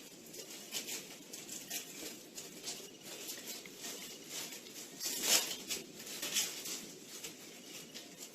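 Plastic cling wrap crinkling and rustling in irregular small crackles as it is pulled tight over the top of a bowl, with a louder burst of crinkling a little past the middle.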